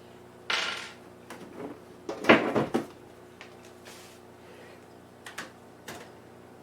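Clunks, rattles and a scrape of a metal computer case being handled, its side panel being opened. The loudest knocks come about two seconds in and a couple of light clicks follow later, over a steady low electrical hum.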